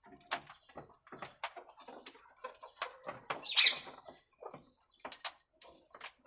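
Pet parakeets: scattered short clicks and taps, with one loud harsh squawk about three and a half seconds in.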